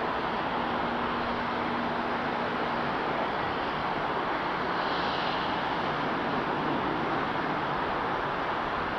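Jet airliner's engines, a steady loud rush of engine noise that holds at an even level, with a brief higher hiss about five seconds in.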